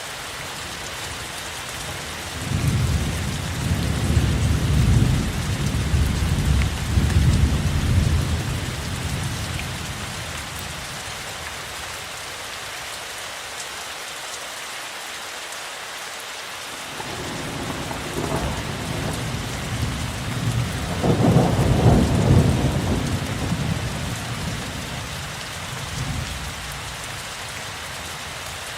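Steady heavy rain with two long rolls of thunder, the first rumbling for several seconds from about two seconds in, the second building a little past the middle and peaking loudest before fading away.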